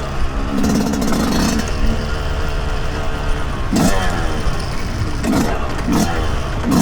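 A 2023 Yamaha YZ125's 125 cc two-stroke single-cylinder engine running under load on a trail ride. It holds a fairly steady pitch at first, then from about four seconds in it is revved up and down in quick bursts, roughly one a second, as the throttle is worked.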